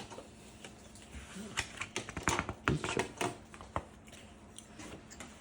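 A quick run of light clicks and taps, about a dozen, in the middle of the stretch: close-up handling noise.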